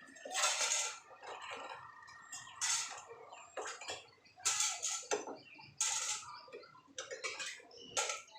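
Dishes and cutlery clattering and scraping as they are hand washed, with irregular clinks and knocks every second or so.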